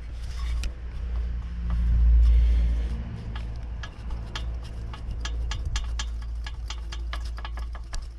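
Light, irregular clicking of a piston being rocked by hand at top dead centre in the right cylinder of a Jawa 634 engine, showing the piston play the owner takes for the cause of the engine's knock. The clicking, several a second, comes in about three seconds in, over a low rumble that is loudest about two seconds in.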